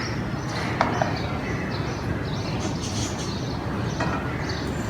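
Birds chirping over a steady background noise, with two sharp clicks about a second in.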